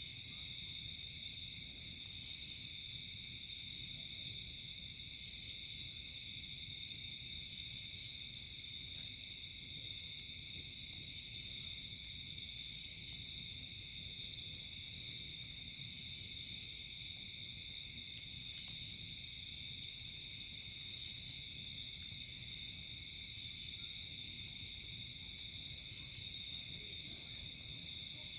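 Steady chorus of night insects such as crickets, a continuous high shrill. A higher, thinner insect call joins in for about a second roughly every six seconds.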